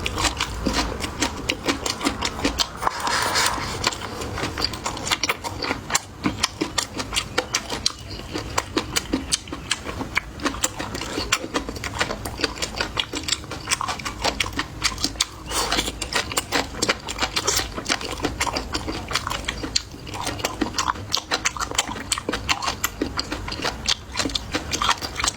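Close-miked chewing of crisp black bean sprouts: a rapid, continuous stream of wet crunches and mouth clicks.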